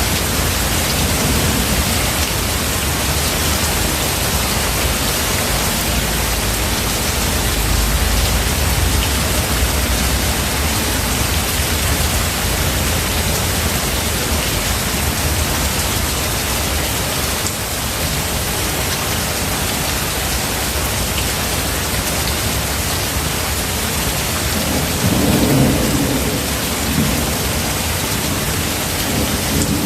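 Steady heavy rain with rolling thunder. A deep low rumble runs through the first third, and a louder thunder rumble comes about 25 seconds in.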